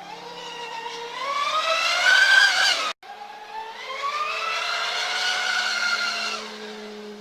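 RC catamaran boat's motor whining as it speeds up, its pitch rising steeply before cutting off abruptly about three seconds in. It starts again, climbs, holds steady, then drops away near the end.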